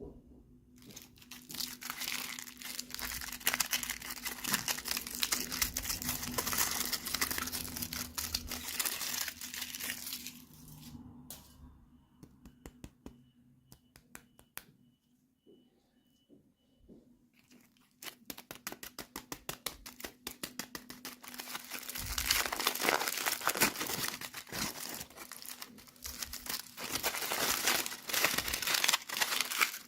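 Plastic toy packaging being crinkled and torn open by hand, in two long spells with a quieter stretch of scattered small clicks in the middle.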